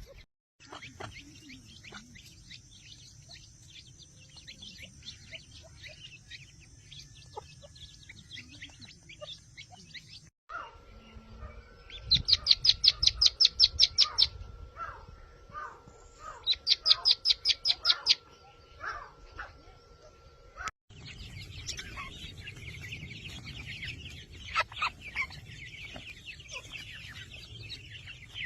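Francolin (teetar) calling: two loud runs of rapid, high repeated notes, each about two seconds long, in the middle, with fainter scattered chirps before and after. The sound is cut abruptly between separate recordings.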